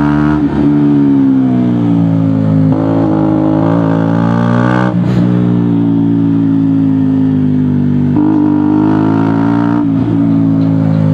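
KTM Duke motorcycle with an aftermarket GPR exhaust, heard up close, running on the road. The engine note is loud and continuous and steps in pitch at several gear changes, about every two to three seconds.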